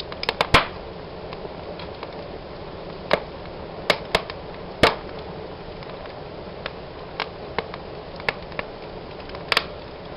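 Wood fire burning in a fireplace: a steady soft hiss of flame with irregular sharp crackles and pops. There is a quick cluster of pops right at the start and a loud single pop about five seconds in.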